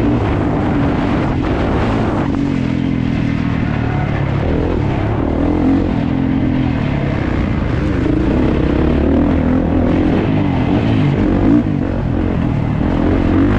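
Kawasaki KX450's single-cylinder four-stroke motocross engine running hard, its revs rising and falling over and over as the bike is ridden around the track.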